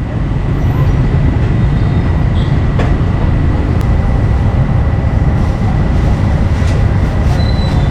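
A loud, steady low rumble of background noise, with a thin steady high tone over it and a few light clicks.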